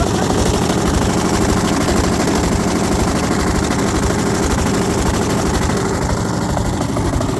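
Washing machine running with stones in its drum, the stones clattering and banging against the drum in a fast, continuous clatter over the machine's hum.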